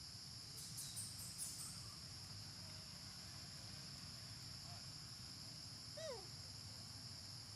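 Steady high-pitched drone of an insect chorus, with a few light clicks about a second in and a single short call sliding downward about six seconds in.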